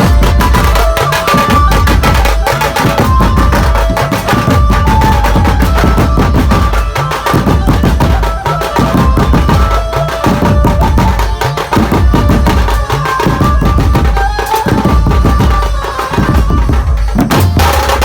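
Chhattisgarhi dhumal band playing: a stepping lead melody over loud, dense drumming with heavy bass beats.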